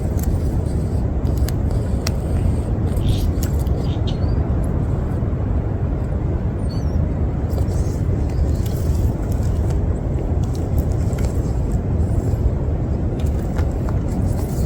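A steady low rumble of field audio turned right up, with an echidna's faint purring, shivering sound coming in short bursts within it.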